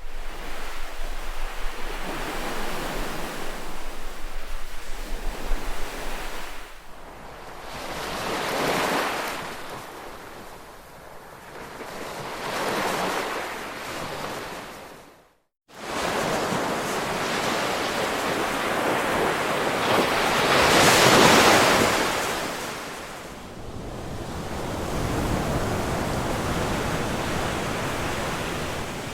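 Ocean waves breaking and washing in, the surf swelling and fading every few seconds, with the biggest surge about two-thirds of the way through. The sound cuts out completely for a moment about halfway through.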